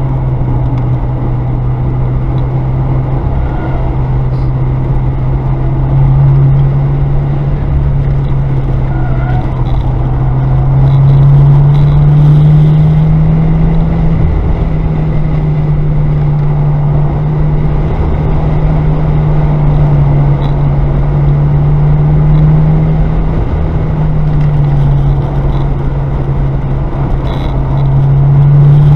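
Car engine droning inside the cabin under hard track driving. Its note climbs slowly under throttle and drops sharply a couple of times, at shifts or lifts, over steady tyre and road rumble.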